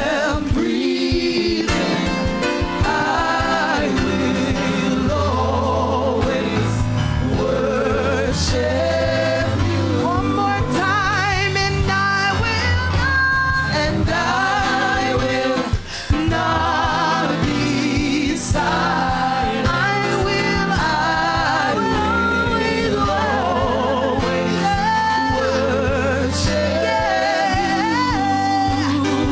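Gospel worship music: singing voices with wavering, held notes over a band with a steady bass line and drums.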